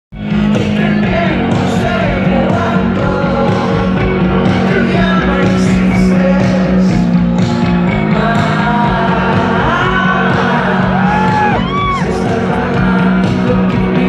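Live rock band playing with a voice singing over a held low note.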